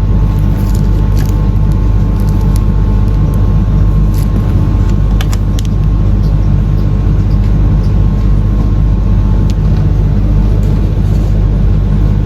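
Steady low mechanical drone, like a vehicle engine running, unchanging throughout, with a few faint clicks a few seconds in.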